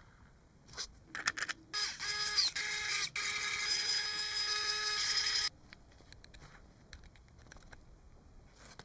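Home-built 4-cylinder engine running with a steady whine for about four seconds after a few clicks, then stopping abruptly.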